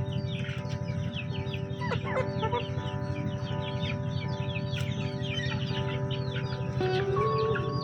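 Chickens clucking and calling, with a dense, continuous chatter of high chirps, over quiet background music holding sustained notes.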